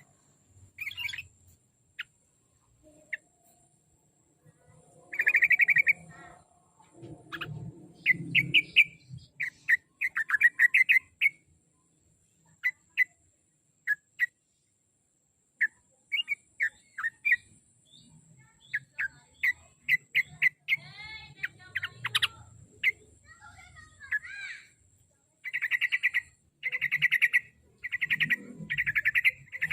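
Trucuk (yellow-vented bulbul) singing in short, bubbly chirping phrases with pauses between them, then a run of rapid repeated notes near the end.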